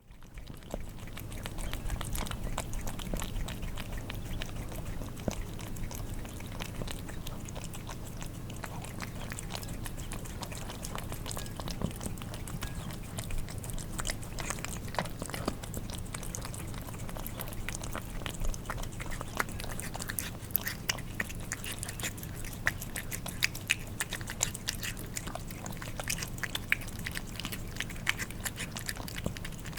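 Cats eating wet food: wet chewing, smacking and tongue lapping, a dense, irregular run of small clicks. A low steady hum runs underneath.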